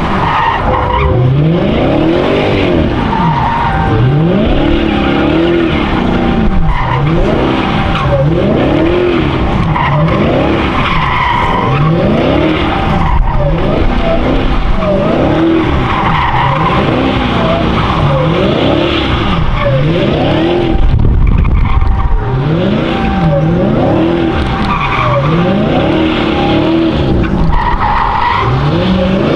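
A car doing donuts: its engine held at high revs with the tyres squealing, the engine note rising and falling over and over, about every two seconds.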